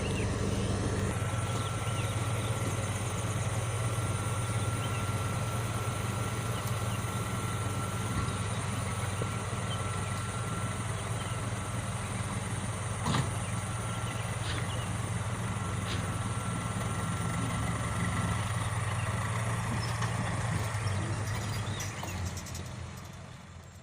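Heavy diesel engine running steadily at low revs, with a thin steady whine above it and a few short sharp clicks in the middle; the sound fades out near the end.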